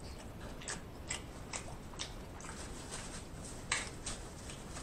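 Close-miked chewing with wet mouth clicks and lip smacks, a scatter of short soft clicks about every half second.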